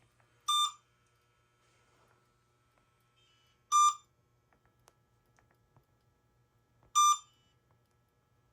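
Short electronic beep repeating about every three seconds, three times.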